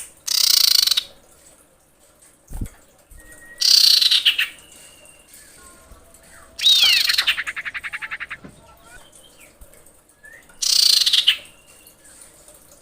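Female common iora (cipoh) calling to a male: four harsh, high calls a few seconds apart, the third running into a fast rattling trill. A short low thump comes about two and a half seconds in.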